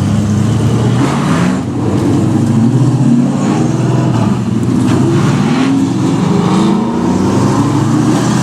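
Several race trucks' engines running together, their pitches overlapping and rising and falling as they accelerate and ease off.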